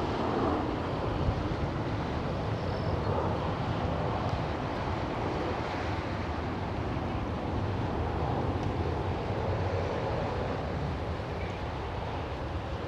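Jet airliner engines running, a steady rumble with no sharp events.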